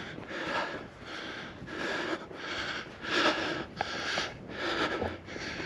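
A man breathing hard through his mouth while climbing a steep hill, in quick, even in-and-out breaths of roughly one every half second.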